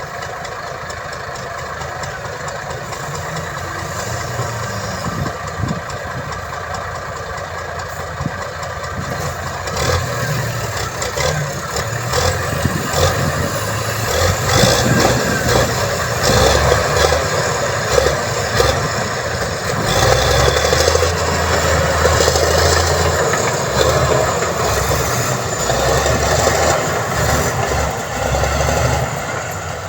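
Diesel engine of heavy construction machinery running steadily. It grows louder about ten seconds in, with clattering and knocks over it.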